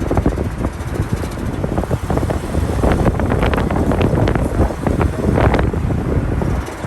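A 2001 Lexus GS300 making an irregular grinding and rattling noise, a dense run of uneven knocks that is heaviest from about three to six seconds in. Where on the car the grind comes from is not known.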